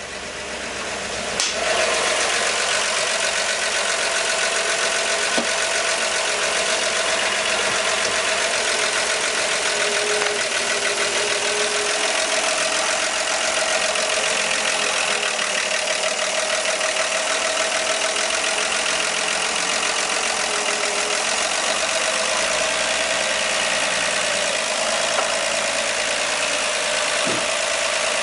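The engine of a 1959 Ford ice cream truck idling steadily, warmed up and running with the choke pushed fully in. It grows louder over the first couple of seconds, with a brief click about a second and a half in.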